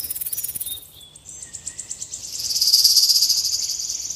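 Rattlesnake shaking its tail rattle: a rapid, dry, high-pitched buzz. It breaks off about a second in, then resumes slightly lower and louder.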